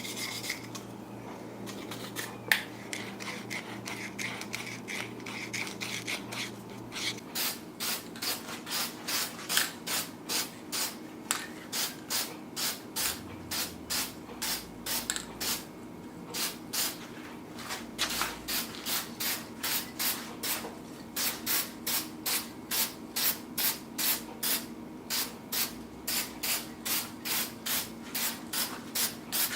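Sandpaper rubbed back and forth by hand over a metal fan grill to scuff it up for painting, in even strokes about two or three a second.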